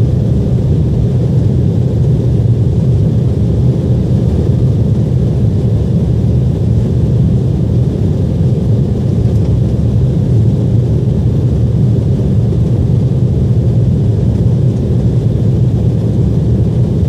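Airliner climbing after takeoff, heard from the passenger cabin: a loud, steady, low drone of jet engines and airflow that does not change.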